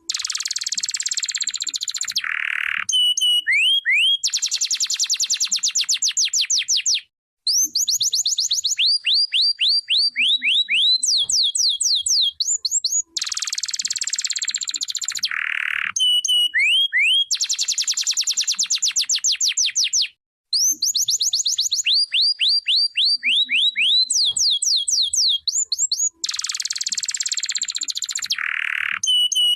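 Domestic canary singing a long song of fast trills and rows of quick falling whistles, broken by two short pauses; the same run of phrases repeats about every 13 seconds.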